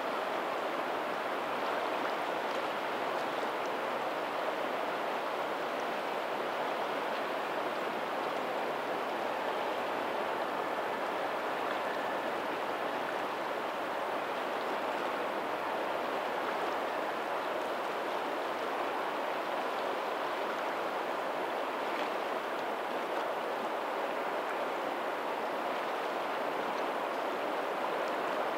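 Steady rush of a lagoon's tidal outflow running over a pebbly shore toward the sea, with faint ocean surf beneath it.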